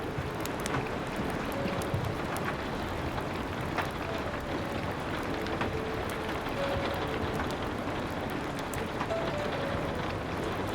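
Steady rain, with scattered sharp crackles of a wood fire and slow, soft piano notes held over it.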